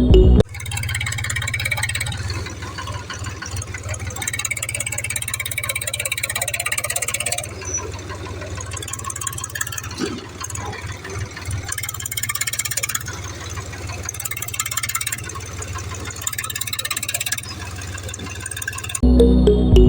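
Small electric motor of a DIY toy tractor running with a steady whir, its drive straining and fluttering unevenly as the wheels work in mud.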